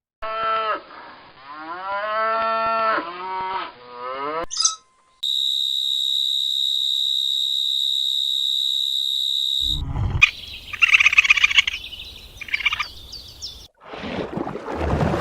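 A cow mooing in one long call that rises and falls for about four seconds, followed by a short rising whistle and then a steady high-pitched tone lasting about four and a half seconds. After it come a few seconds of short high chirping calls and a low rumbling noise near the end.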